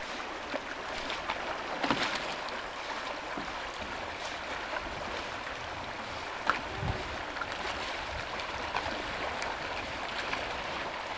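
Water rushing and splashing around a canoe under way, with a few sharp splashes or knocks, about 2 and 6.5 seconds in.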